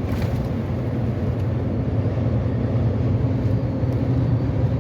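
Steady drone of a Volvo semi-truck's diesel engine with tyre and road noise while cruising on the highway, heard from inside the cab.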